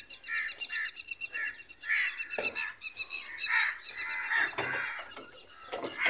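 Birds chirping and calling in many short notes, over a steady high-pitched background tone, with a few faint knocks.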